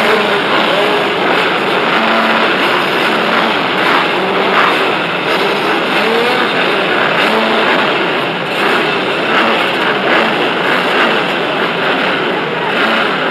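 Motocross bike engines running loud and revving, the pitch rising and falling over and over as the bikes accelerate and back off.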